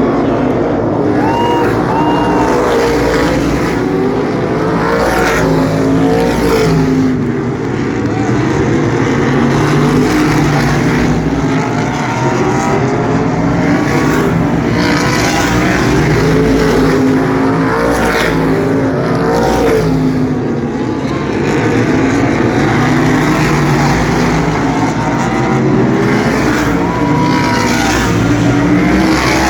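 A field of asphalt sprint cars racing around an oval, many engines running hard at once, their pitch rising and falling as cars pass by.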